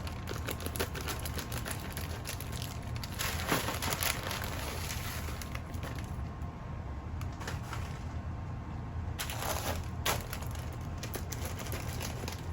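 Rustling and crackling of plastic food bags being handled, with scattered light knocks, over a steady low hum.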